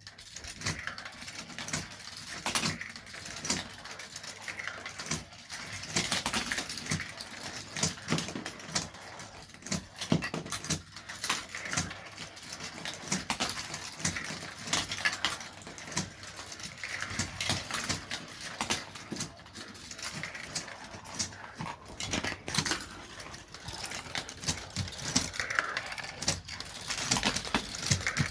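Marbles rolling and clattering through a plastic GraviTrax marble run, a steady stream of clicks, knocks and rattles.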